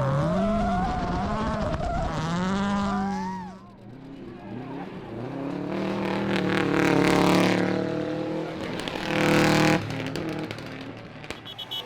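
Rally car engines at full stage pace, the revs swinging up and down through gear changes and lifts. About four seconds in the sound cuts to another car whose engine climbs in pitch and loudness as it accelerates closer, with a short hissing rush near the end.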